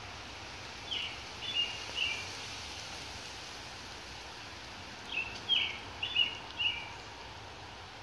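A songbird sings two short phrases of a few quick notes each, the second louder, about four seconds apart, over a steady hiss of light rain.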